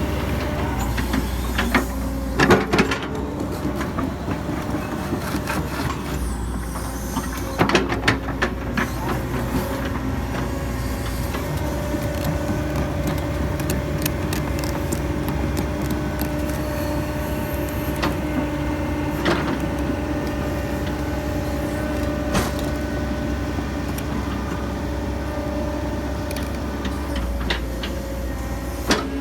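Hitachi 135US excavator's diesel engine running steadily while it works, with a few short clanks and knocks now and then.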